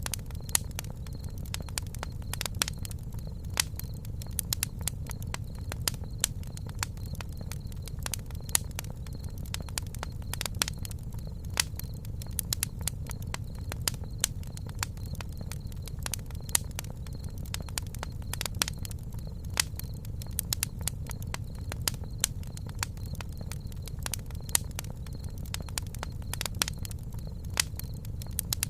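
Campfire burning: wood crackling and popping in many irregular sharp snaps, over a low steady rumble of the flames.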